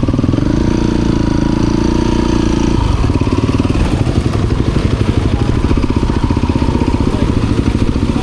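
Motorcycle engine running: its pitch rises in the first second and holds steady. About three seconds in it drops to a slow, even chugging at low revs.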